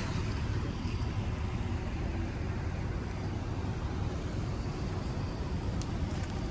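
Steady low rumble of vehicle engines and traffic, with no distinct events.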